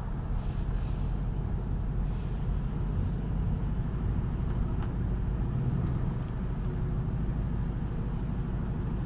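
2020 Ford Mustang GT's 5.0-litre Coyote V8 running with a steady low rumble.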